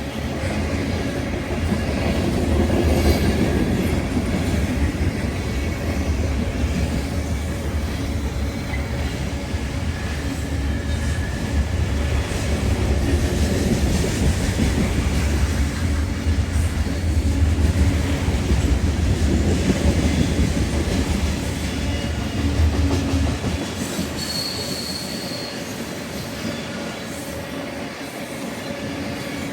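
A train rolling past, steel wheels on the rails giving a steady heavy rumble with clatter and squeal, easing off about three quarters of the way through; a short high squeal near the end.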